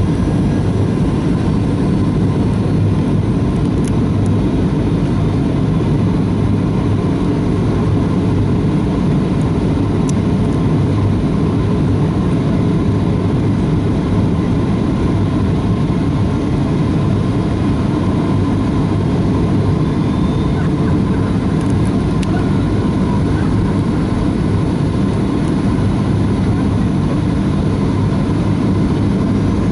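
Boeing 737-400 cabin noise in flight: a steady low rumble of airflow and the CFM56 jet engines, heard from inside the cabin.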